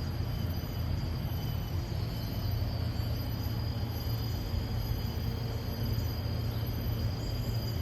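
Steady high-pitched buzzing of insects in tropical forest, several unbroken tones, over a constant low rumble.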